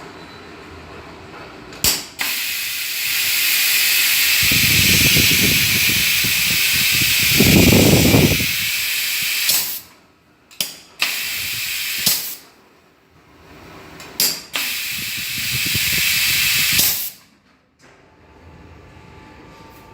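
Pneumatic perfume-bottle valve crimping machine cycling. A sharp click starts a long hiss of compressed air, with a low rumble twice inside it. Then come a few more clicks and two shorter hisses.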